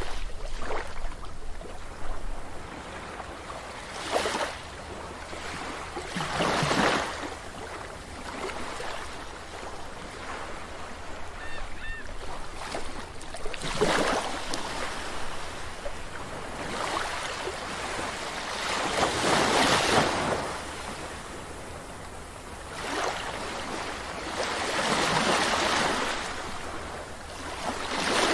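Sea waves breaking and washing up a beach, the surf swelling and falling away every few seconds. A faint, short seagull call comes about twelve seconds in.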